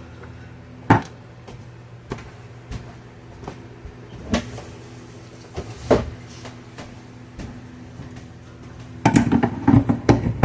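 A can of El Pato sauce being opened in the kitchen: a few separate clicks and knocks of handling, then a run of rapid clicking and rattling near the end.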